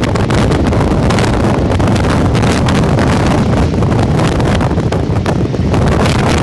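Loud, gusty wind buffeting the microphone aboard a boat under way on open water.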